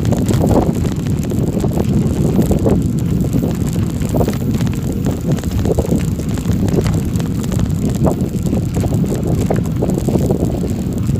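Wind buffeting the microphone: a steady low rumble with scattered brief knocks.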